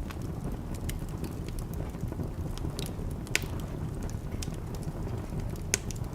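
Wood fire in a fireplace crackling over a low steady rumble, with scattered sharp pops, two louder ones a little past the middle and near the end.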